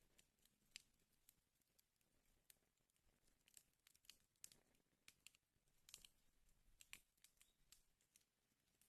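Wood fire burning in a fireplace, faint, with irregular crackles and pops over a soft hiss; a cluster of louder pops comes about six to seven seconds in.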